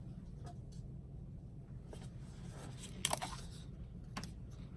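Faint clicks and light knocks of acrylic paint bottles being picked up and set down, the most distinct about three seconds in, over a steady low room hum.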